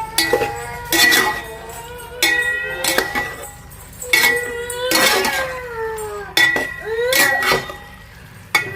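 Metal spoon or ladle knocking and scraping in a steel cooking pot. There are sharp clinks roughly once a second, each leaving a ringing metallic tone.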